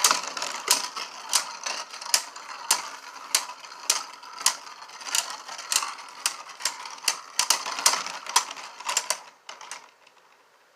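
Two Beyblades spinning in a plastic stadium: a steady whirring scrape with sharp clacks of the tops hitting each other about every half second, which come faster about seven seconds in, then the spinning dies away near the end.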